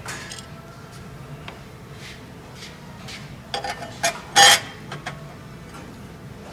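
Metal parts of a HWAM wood-burning stove clinking and knocking as they are handled during reassembly. There are scattered light knocks, a quick cluster about three and a half seconds in, and one loud ringing clank about four and a half seconds in.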